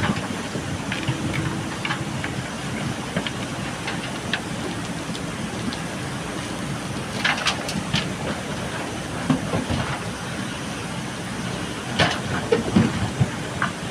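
JCB backhoe loader's diesel engine running steadily, with scattered metallic clanks and rattles, loudest around seven seconds in and again near the end.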